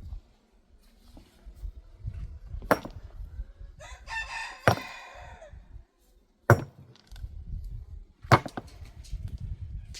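A rooster crows once, about four seconds in, a single call lasting about a second and a half. Around it come four sharp knocks, a little under two seconds apart.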